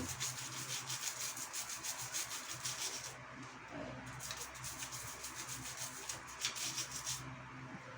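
Toothbrush bristles scrubbing a bicycle chain and sprocket in soapy water, rapid back-and-forth scratchy strokes working off dried grease. The strokes ease off a little after about three seconds.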